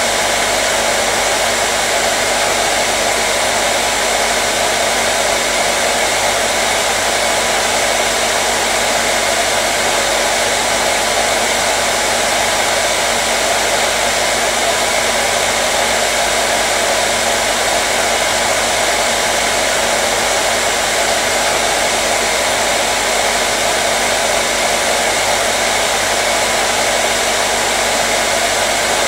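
Hair dryer running continuously: a steady, unchanging rush of blown air with a faint constant motor hum underneath.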